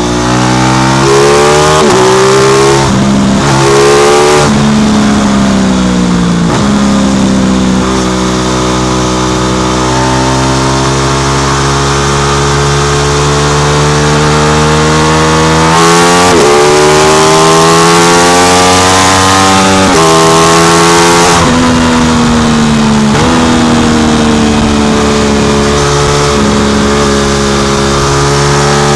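Aprilia RS660 parallel-twin engine through an SC Project exhaust while riding. The pitch rises and falls with each gear change several times early on, holds at a steady cruise for a stretch, and then climbs and drops again with more shifts.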